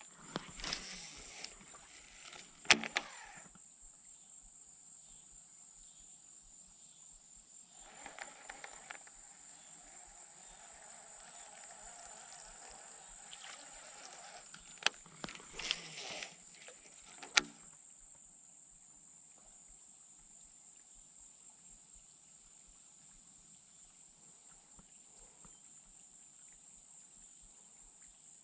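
Steady high-pitched insect buzz outdoors, with a few sharp clicks or knocks, two near the start and a cluster about 15 to 17 seconds in.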